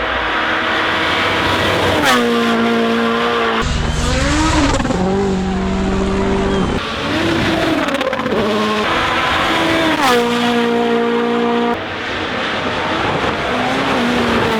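WRC Rally1 cars' turbocharged four-cylinder engines at full throttle, the engine note climbing and dropping sharply several times through gear changes and passes, in a series of short cut-together clips.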